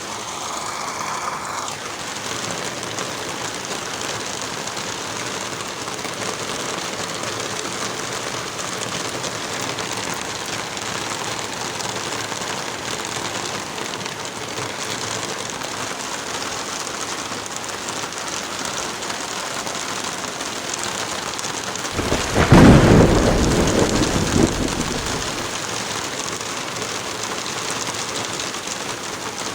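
Heavy rain falling steadily, with one loud thunderclap about three quarters of the way through that rumbles and fades over a few seconds.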